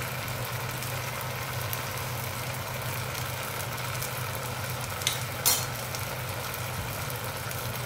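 Water spinach, tomato and shrimp paste sizzling in a hot wok, over a steady low hum. Two sharp clicks about five seconds in.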